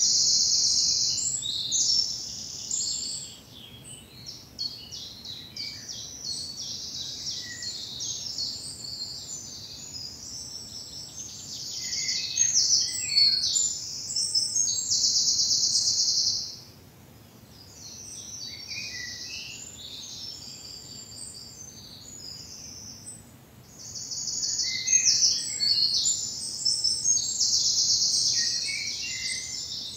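Woodland songbirds singing in the spring dawn chorus. A loud, high, fast trilling song comes three times, each lasting a few seconds, with softer, scattered chirps between.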